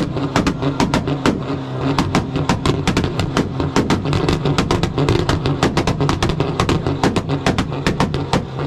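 Car engine held on a 2-step launch-control rev limiter, its exhaust popping and banging in a rapid, irregular string of cracks over the steady drone of the held revs.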